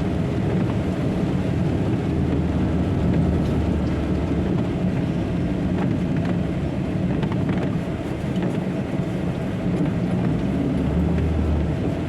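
Diesel engine of a semi-trailer truck running steadily, a low drone heard from inside the cab while driving.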